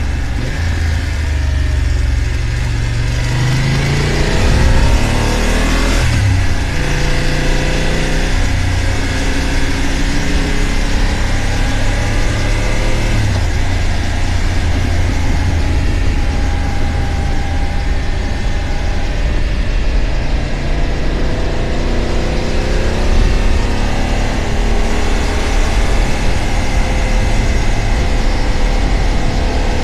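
BMW F900 GS Adventure's parallel-twin engine running on the move. The revs climb for a few seconds and drop suddenly with a gear change about six seconds in, then hold steadier, and climb again later. A steady rush of wind runs underneath.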